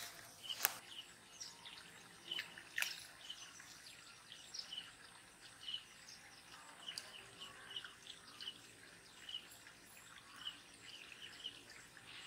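A bird giving short, high chirps over and over, one or two a second at an uneven pace, with a couple of sharp clicks in the first three seconds.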